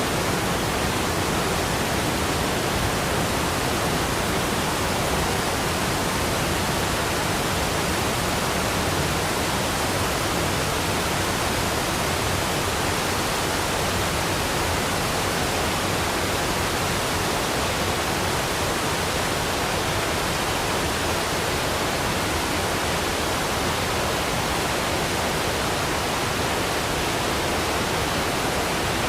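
Waterfall: a steady, unbroken rush of falling water spread evenly from low rumble to high hiss, with no changes.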